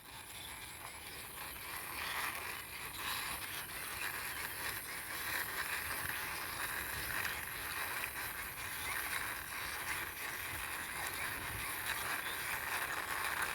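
Toy trailer truck pushed along by hand, its wheels rolling with a steady whirring rattle. The sound builds up over the first two seconds, then holds steady.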